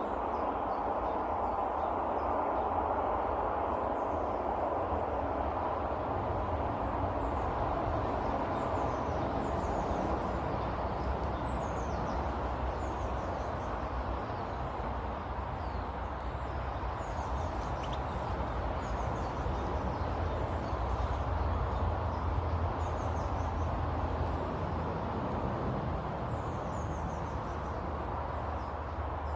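Small birds chirping faintly now and then, short high falling notes, over a steady low rumbling background noise.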